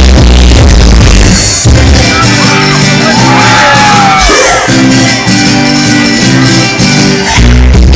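Loud electronic dance music from a sound system, its heavy bass dropping out about two seconds in and coming back near the end, with crowd shouts and whoops during the break.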